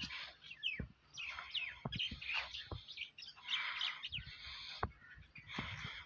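Small birds chirping and twittering, several at once, in quick falling chirps, with scattered sharp knocks.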